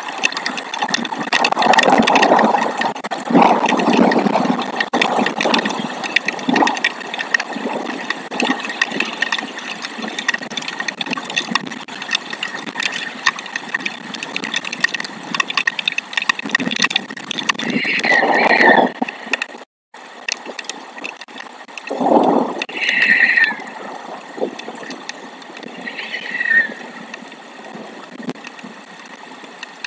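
Wind gusting across an outdoor nest-camera microphone, a loud rushing noise that rises and falls, strongest in the first few seconds. A few short, falling chirps sound over it later on.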